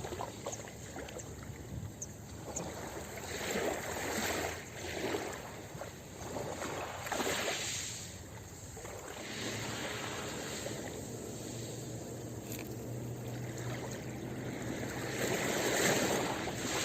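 Ocean waves washing onto a beach, the surf swelling and easing several times, loudest near the end.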